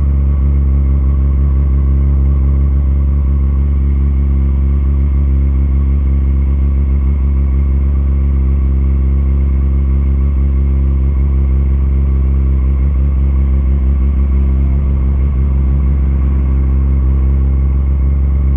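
Motorcycle engine idling steadily at an unchanging pitch.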